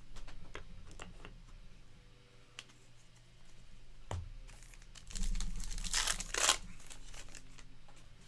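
A trading card pack wrapper being torn open and crinkled, loudest from about five to six and a half seconds in, with scattered light taps of cards being handled.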